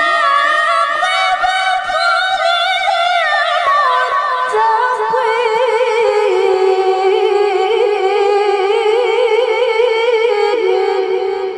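A woman reciting the Quran in the melodic tilawah style, singing one long unaccompanied melismatic phrase with vibrato. The phrase starts high and steps down in pitch in stages, then fades near the end.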